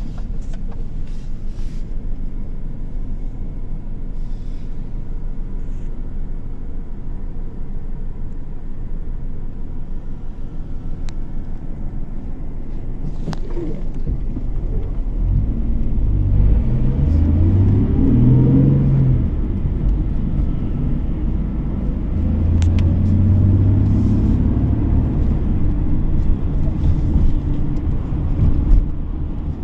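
Car engine and road noise while driving. A steady low rumble gives way, about halfway through, to engine pitch climbing in a few steps as the car picks up speed, then settling into a steady drone.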